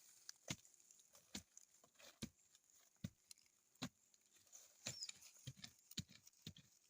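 Faint, evenly spaced dull knocks, about one every 0.8 seconds, with a short whistled call about five seconds in.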